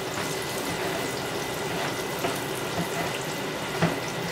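Breaded green tomato slices frying in hot oil in a pan, a steady sizzle, with a few light clicks, the sharpest near the end.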